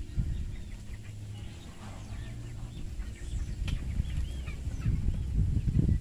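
Birds chirping again and again in short up-and-down calls, over a steady low rumble.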